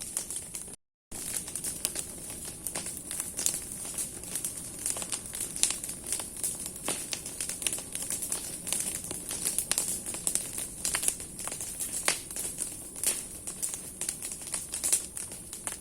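Large bonfire of burning branches crackling and popping steadily, with many sharp snaps of burning wood over a hissing flame. The sound cuts out briefly about a second in.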